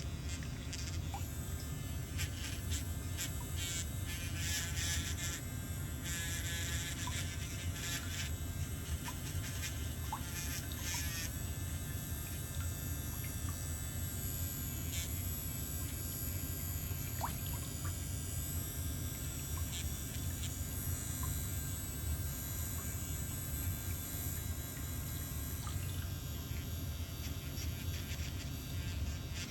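Electric nail drill running steadily with a low buzz, with a rougher scratchy sound through the first ten seconds or so as it files the thickened toenail.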